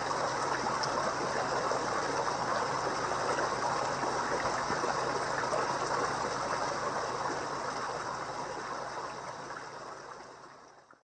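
Water running and splashing steadily into a koi pond. It fades out over the last few seconds and cuts off just before the end.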